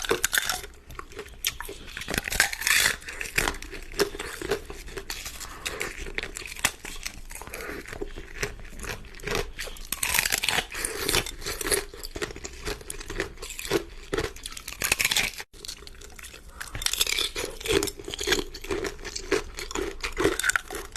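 Close-miked biting and chewing of hard ice, with dense crunches and crackles in loud clusters and a momentary break about two-thirds of the way through.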